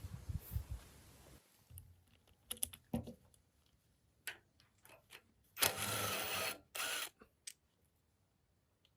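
Workshop handling sounds: low knocks, then scattered small metallic clicks, and a hissing burst about a second long roughly two-thirds of the way through, followed by a shorter one.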